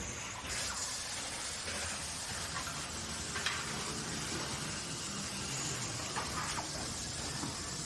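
Factory work noise: a steady hiss that gets stronger about half a second in, with a few short clicks or knocks.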